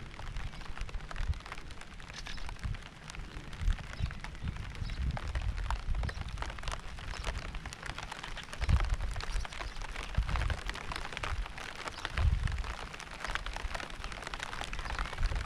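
Steady rain with many individual drops pattering. Low rumbles come and go beneath it, strongest about nine, ten and twelve seconds in.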